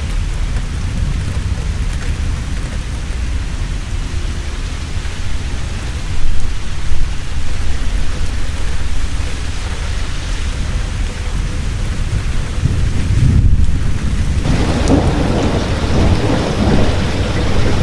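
Heavy, steady rain with thunder rumbling underneath; two louder thunder claps come about six and seven seconds in, and a stronger rolling peal of thunder builds from about two-thirds of the way through.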